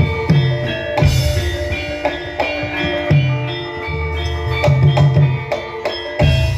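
Javanese gamelan music for lengger dance: ringing metal keyed instruments and gongs over hand-drum strokes, with strong drum accents about a second in and again near the end.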